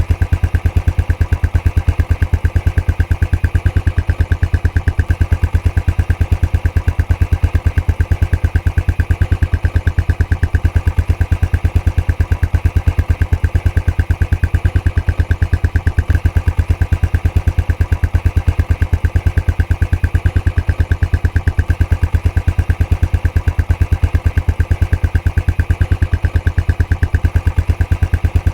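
Royal Enfield Classic 500's single-cylinder engine idling through its stock exhaust, a steady, even beat of exhaust pulses that never changes.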